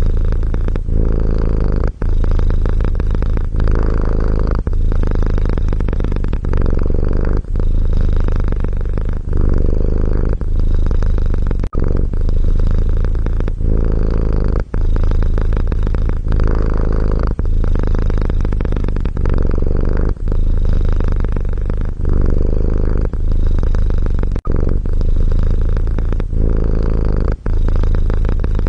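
Domestic cat purring steadily in a low rumble, with a brief break about every two to three seconds where the purr turns between in-breath and out-breath.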